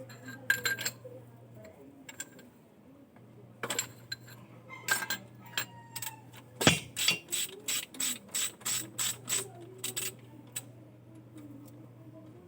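Metal tools and parts clinking and clicking during engine work: scattered sharp clicks, then a quick run of about a dozen evenly spaced clicks a little past halfway.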